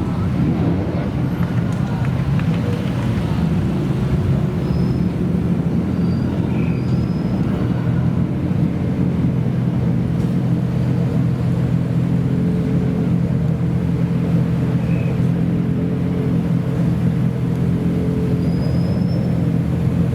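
Modified car engine idling steadily with a low, even exhaust rumble and no revving.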